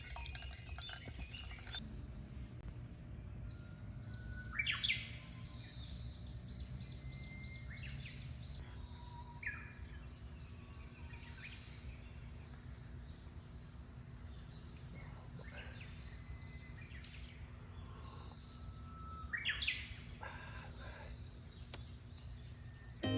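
Wild birds calling over a steady low outdoor background: a loud call about 5 s in followed by a quick run of repeated high notes, scattered calls in between, and another loud call about 20 s in.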